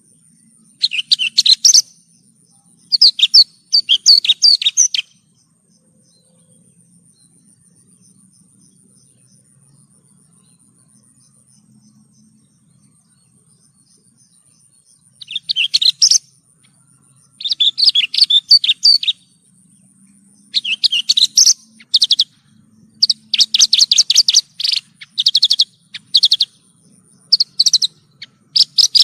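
Javan bushlark (branjangan) singing in bursts of rapid, high chirping and trilling phrases. There are two short bouts in the first five seconds, then about ten seconds of pause. From about fifteen seconds in, the phrases come close together.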